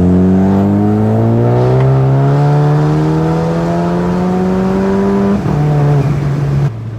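Turbocharged VW Jetta GLI 2.0-litre four-cylinder with an IS38 turbo, pulling hard at full throttle with the engine note rising steadily through the revs. A little over five seconds in the revs drop abruptly, and the engine holds a lower steady note before the sound falls away near the end.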